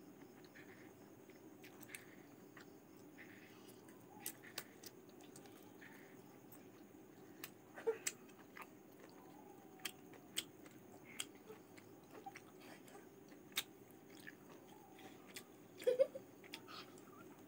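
A person eating boiled chicken and rice by hand: close-up chewing with scattered short, sharp mouth clicks, the loudest a cluster about halfway through and another near the end.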